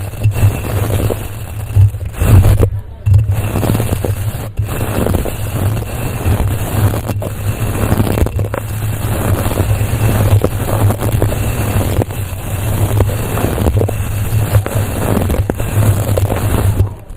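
Close-miked scratching and brushing against a microphone, a continuous rough rasp with a deep rumble of mic contact under it, pausing briefly about three seconds in and again a second or so later.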